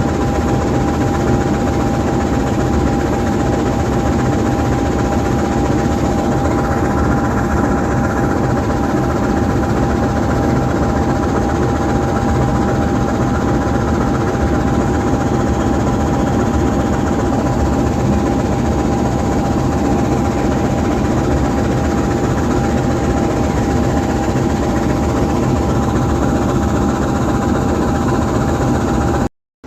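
GE U20C diesel-electric locomotive's V12 diesel idling steadily while parked, with a steady high whine over the low engine note. The sound cuts out briefly just before the end.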